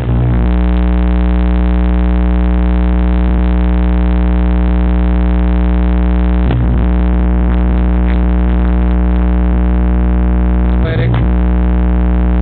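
Microwave oven running with tin foil arcing inside, a loud steady electrical buzz that holds one pitch with its overtones, broken briefly about halfway through and again near the end.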